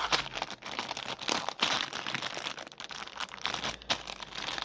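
Plastic food packaging crinkling and rustling irregularly as it is handled and turned over.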